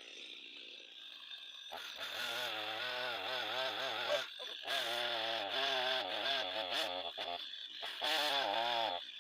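Two-stroke chainsaw cutting into a standing tree trunk, starting about two seconds in. Its engine pitch wavers up and down as the chain bites under load, with a few short drops in throttle.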